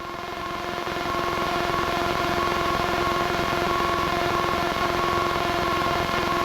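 Piper single-engine light aircraft's piston engine and propeller at low power, heard from inside the cockpit: a steady hum with a held droning note that swells over the first couple of seconds, then holds even.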